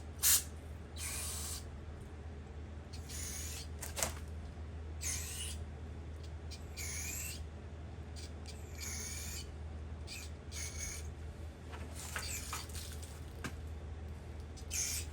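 Aerosol solvent cleaner sprayed in short hissing bursts, about a dozen, into the threaded bolt holes of an engine block. A steady low hum runs underneath.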